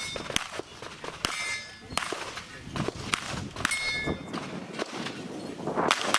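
Handgun shots fired one at a time at a steady pace, with steel plate targets clanging and ringing after hits, twice with a clear ringing tail.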